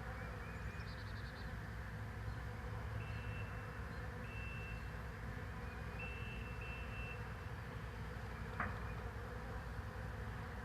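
Swarm of honeybees buzzing steadily, with a few thin high tones in the middle and one sharp click about eight and a half seconds in.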